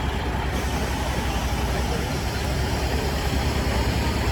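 Heavy truck engines running with a steady low rumble as Kenworth trucks roll by.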